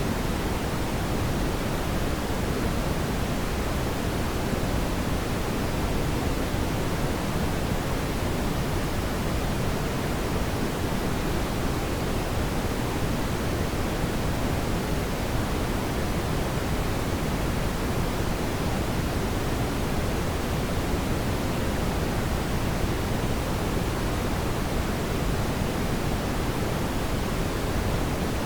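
Steady brown noise: an even, deep hiss weighted toward the low end, with no change or events.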